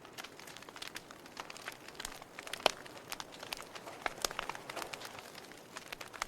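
Wood fire crackling in a fireplace: irregular sharp pops and snaps over a soft hiss, with one louder pop about two and a half seconds in.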